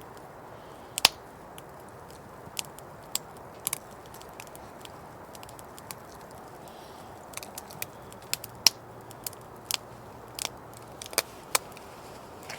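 Campfire crackling: irregular sharp pops and snaps of burning wood over a steady low background noise.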